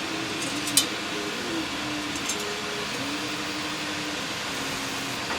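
Steady fan or air-conditioner noise with a faint wavering tone running through it, and one sharp click about a second in, followed by a couple of faint ticks.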